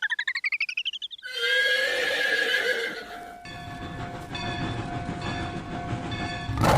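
Cartoon sound effects: a quick rising, rapidly pulsing sweep, then a horse whinnying about a second in, used as the railway-crossing gate's warning sound. A train then runs steadily, with a repeated tone over its rumble, and a loud hiss bursts in at the very end.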